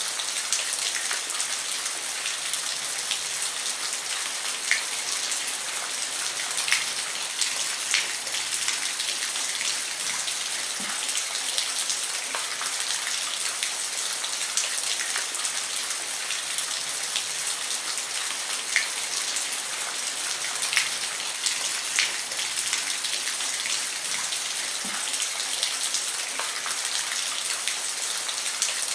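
Steady rain falling on a roof: a dense high hiss with individual drops ticking sharply through it.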